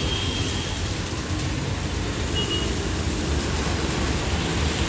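Steady road traffic noise in heavy rain: a low rumble of passing vehicles under an even hiss of rain and wet tyres.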